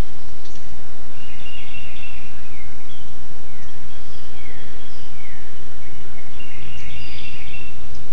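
Songbirds singing in the background over steady noise: buzzy high trills near the start and again near the end, with several short falling whistles in between. A low steady hum comes in near the end.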